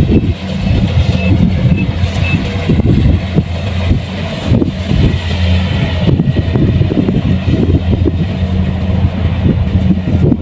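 Kubota rice combine harvester running under load: a steady engine hum with continuous irregular rattling from the machinery.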